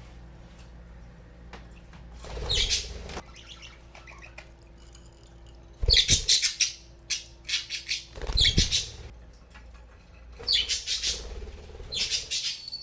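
Pet budgerigars chirping and squawking, with bursts of wing flapping, in about five short loud spells a couple of seconds apart.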